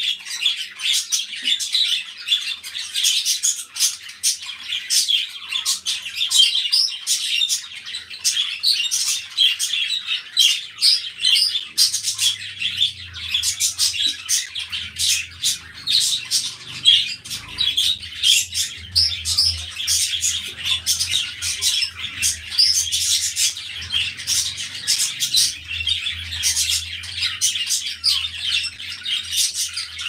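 Many small birds chirping without a break, a dense chorus of short, rapid, high calls. A faint low hum comes and goes in the second half.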